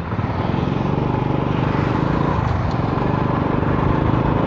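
A motor vehicle engine running steadily close by, over road and traffic noise.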